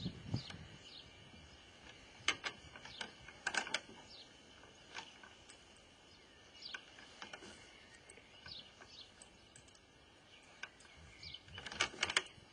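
Garden birds calling faintly with short, falling chirps now and then. Three quick clusters of sharp clicks are the loudest sounds: one about two seconds in, one a second later, and one just before the end.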